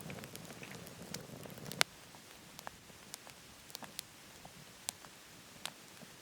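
Wood fire crackling in a wood-burning stove, with scattered sharp pops. A steady low rushing sound runs through the first couple of seconds and cuts off abruptly at a loud pop, leaving only faint sparse crackles.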